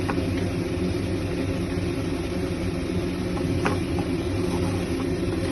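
Steady low motor hum, with a couple of faint ticks.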